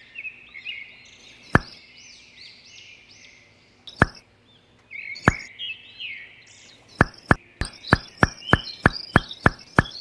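Birds chirping steadily, with sharp knocks: three single knocks spaced a second or more apart, then from about seven seconds in an even run of knocks, about three a second.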